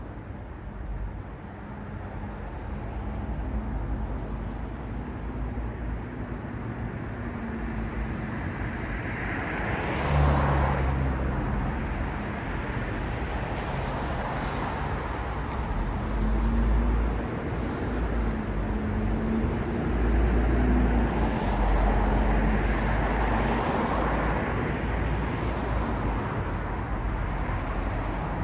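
City street traffic: a steady wash of road noise with engine hum, as vehicles pass, loudest about ten seconds in and again about two thirds of the way through.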